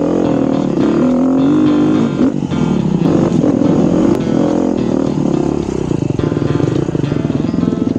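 Dirt bike engine running, its pitch rising and falling as the throttle is worked, settling into a lower, evenly pulsing run in the last couple of seconds.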